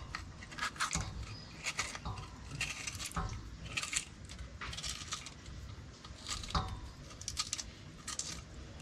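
A knife cutting up a pepper: irregular light clicks and clinks, about one to two a second.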